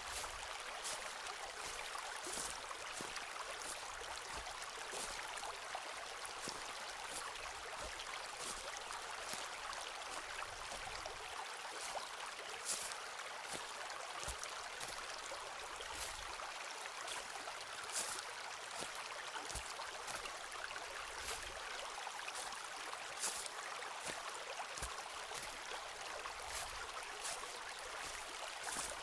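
Footsteps walking along a forest path, short crunching steps about one or two a second, over the steady rush of a stream.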